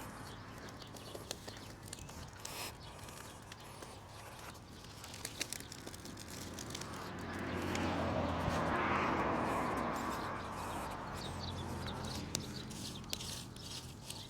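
Small campfire of damp twigs, leaves and grass clippings burning, with scattered sharp crackles and pops as moisture is driven out of the wood. In the middle a rush of air swells and fades over a few seconds.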